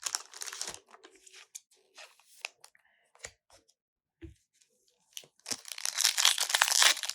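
Foil booster pack wrapper and cards being handled: light crinkling and a few small taps, then about two-thirds of the way in a longer, louder stretch of crinkling and tearing as a pack wrapper is worked open.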